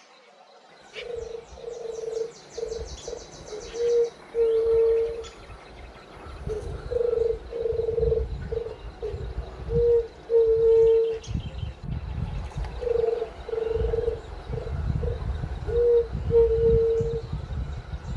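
White-tipped dove cooing: repeated low, hollow notes in phrases of a few short coos ending in a longer drawn-out one, about three phrases, over a low rumble.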